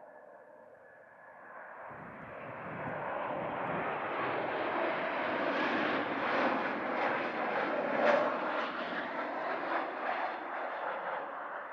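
Embraer E190 regional jet's two CF34 turbofans passing by as it comes in to land. The jet noise swells from about two seconds in, is loudest a little past the middle, then fades.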